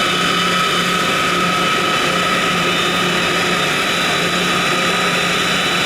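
A machine running steadily and hard, with a constant low hum and a steady high whine over a wide rush of noise.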